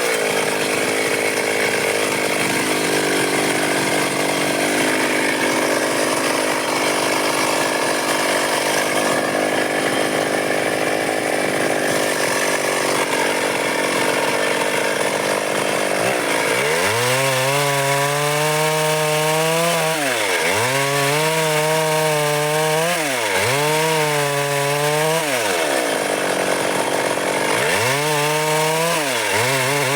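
Stihl MS 382 two-stroke chainsaw cutting dry wood. For about the first half the engine runs steadily under load in the cut. After that its pitch drops and climbs again several times as it bogs in the wood and revs back up.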